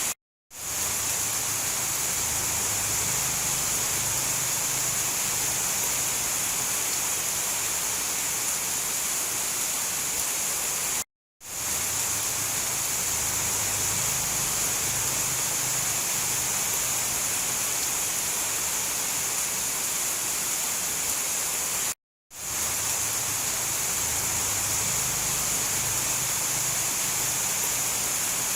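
Steady heavy rain, an even hiss with no thunder. It cuts out to silence three times, about eleven seconds apart, each time fading quickly back in: the seams of a short looped recording.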